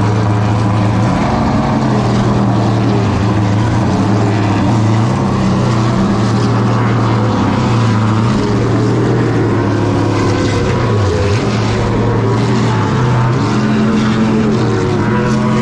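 Late model stock car's V8 engine heard onboard at racing speed, loud and continuous, its pitch dipping briefly several times as the driver lifts into the corners and rising again back on the throttle.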